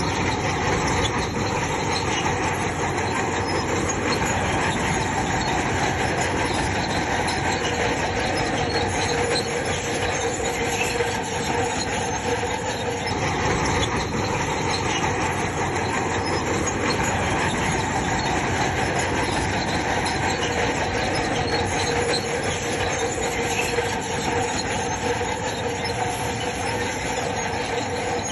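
Crawler bulldozer working: its diesel engine running steadily while the steel tracks squeal and clank.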